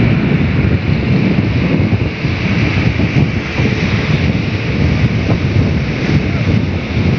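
Wind buffeting the microphone: a loud, steady, fluttering rumble with a broad hiss above it.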